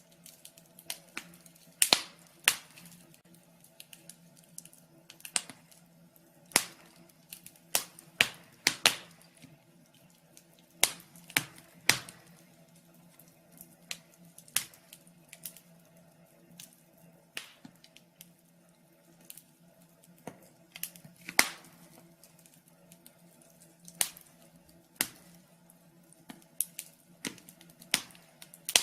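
Fire crackling: irregular sharp pops and snaps, some louder than others, over a faint steady hum.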